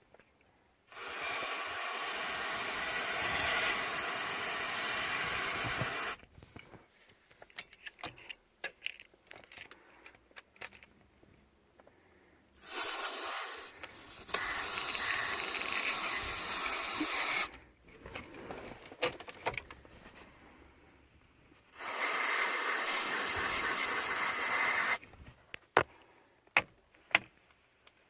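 A spray hissing in three long bursts of about three to five seconds each, each starting and stopping sharply, with small clicks and handling noises between the bursts.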